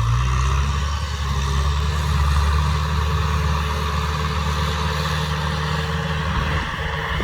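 Kubota M6040 tractor's diesel engine running at a steady speed, a low even drone whose tone shifts slightly near the end.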